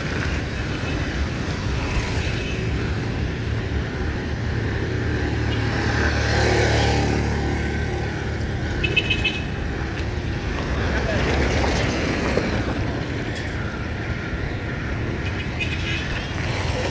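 Road traffic going by: a steady rumble of engines and tyres, with a vehicle passing closer about six to seven seconds in and another around twelve seconds.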